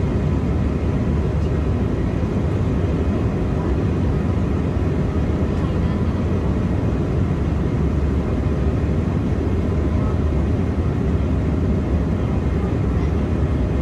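Steady in-flight cabin noise of an Embraer E175 airliner: a low drone from its turbofan engines and the rush of air over the fuselage, unchanging throughout.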